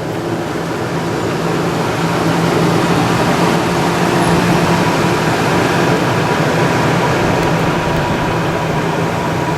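The 1999 Ford F-150's 4.6-litre Triton V8 idling steadily, a low hum under an even rushing noise.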